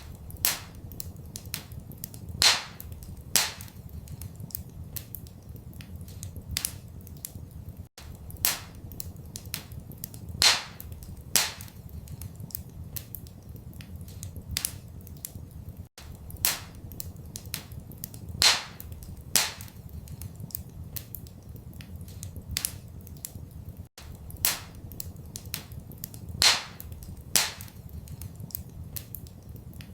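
Wood fire crackling in a fireplace: irregular sharp pops and snaps, some much louder than others, over a low steady rumble. The same run of pops repeats every eight seconds, as a looped recording does.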